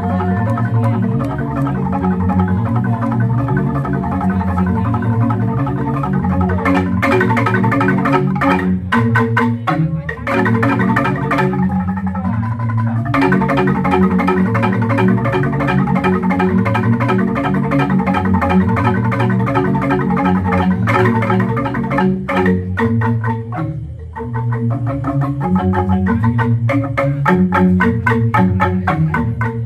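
Jegog bamboo gamelan playing: bamboo-tube xylophones struck with mallets in fast, dense interlocking figures over deep, ringing bass notes from the large bamboo tubes. The texture thins out briefly twice, then the full ensemble comes back in.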